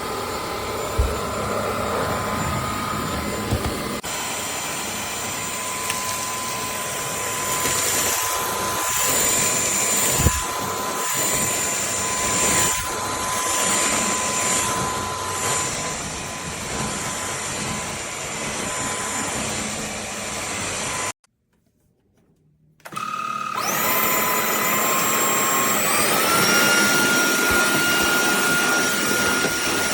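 KCLASO cordless stick vacuum running with a steady motor whine. About two-thirds of the way in it cuts out for under two seconds, then starts up again, its whine stepping up in pitch twice.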